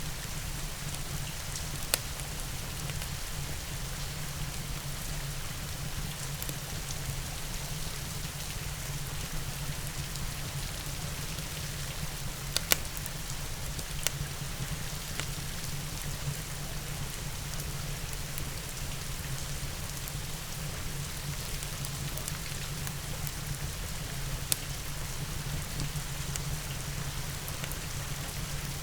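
Steady rain falling, with a low rumble underneath and four sharp pops spread out over the stretch, like a wood fire crackling.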